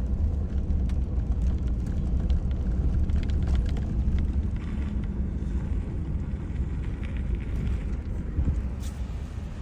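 Vehicle driving slowly along a snow-covered dirt lane: a steady low rumble of engine and tyres, with faint scattered clicks.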